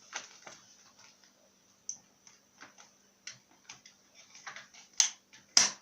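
Vacuum sealer and its plastic bag being handled: scattered light ticks and clicks, then two sharper, louder clicks about five seconds in and near the end.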